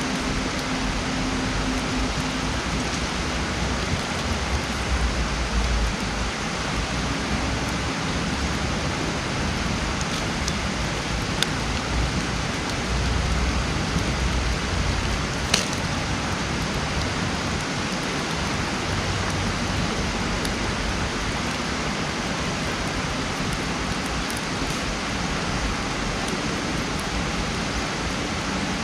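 Wood campfire burning: a steady rushing hiss with a few sharp crackles from the wood, the loudest about halfway through.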